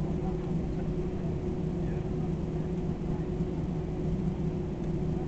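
Steady drone inside an Airbus A320 cabin, with a constant low hum under it.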